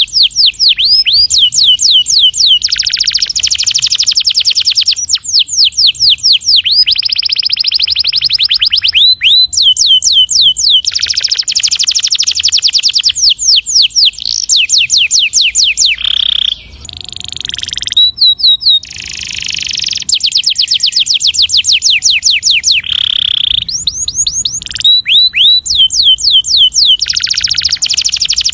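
Canary singing a long rolling song: fast trills of rapidly repeated falling notes, one phrase straight after another, with a short break about two-thirds of the way through.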